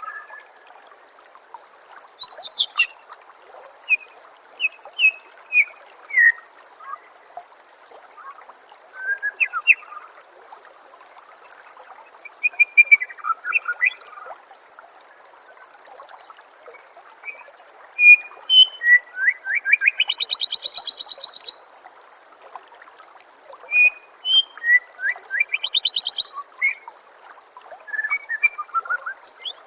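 White-rumped shama (murai batu) singing a varied string of short whistled notes. Twice it breaks into fast rattling trills, a long one about two-thirds of the way through and a shorter one near the end. Under the song runs the steady trickle of flowing water.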